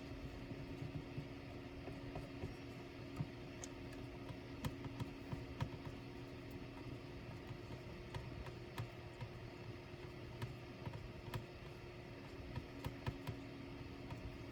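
Light, irregular clicks and taps of laptop parts and small tools being handled during disassembly, over a steady low hum.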